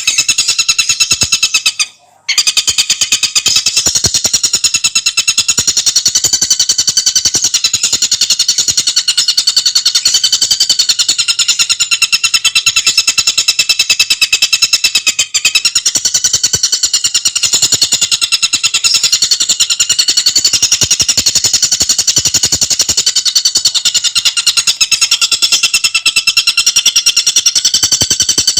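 Tengkek buto bird singing in a continuous, very fast rattling chatter of tightly packed high notes, with one brief break about two seconds in.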